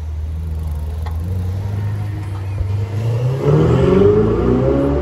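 Ferrari 488 Spider's twin-turbo V8 running with a steady low note as the car pulls off, then revving up with a rising note about three seconds in as it accelerates away.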